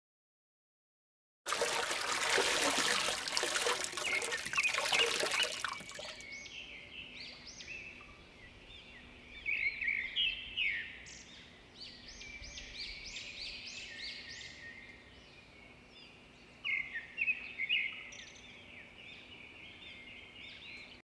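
A rushing noise for a few seconds, then small birds chirping over a river, with many short, high calls coming in clusters.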